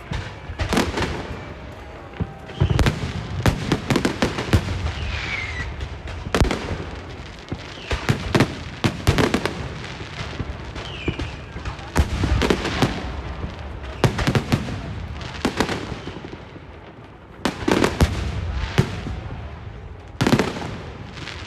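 Fireworks and firecrackers going off: repeated sharp bangs at irregular intervals, some in rapid clusters.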